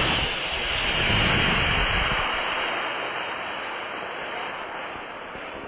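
Estes two-stage model rocket's black-powder motor igniting and rushing as the rocket launches. The hiss is loudest in the first two seconds and fades as the rocket climbs away.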